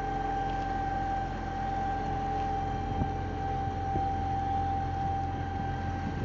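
Concrete pump truck's engine running steadily, a constant low hum with a steady high whine over it.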